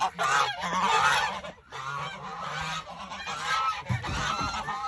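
Geese honking loudly and repeatedly, several birds calling over one another, loudest in the first second.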